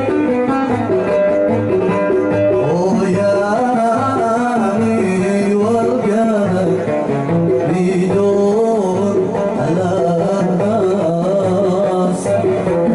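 Live Hadrami jalsa music: a man singing a bending melody over a plucked oud and a steady hand-drum beat.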